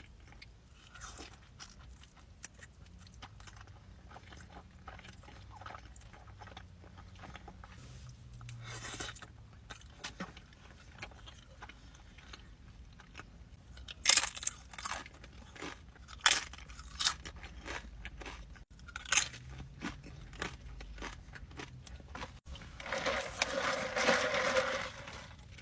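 Close-miked eating of crunchy food: soft chewing for a while, then several loud, sharp crunching bites a little past halfway, and a denser, louder stretch of crunching near the end.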